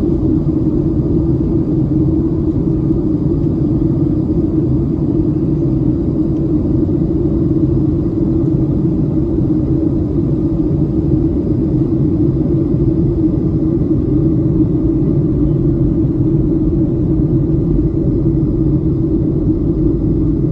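Steady cabin drone of a Boeing 737-700 in flight: its CFM56 jet engines and the airflow, heard as an even low rumble with a faint high whine over it.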